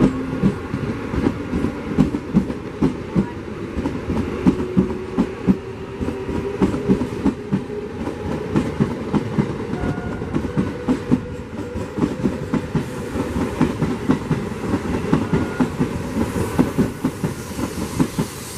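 Eastern Railway EMU local train running past at speed: a steady rapid clatter of its wheels over the rail joints, with a faint slowly rising motor whine.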